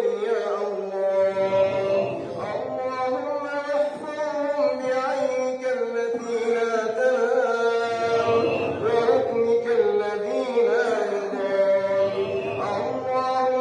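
Chanted singing: a slow vocal melody that bends and sways over a steadily held drone note.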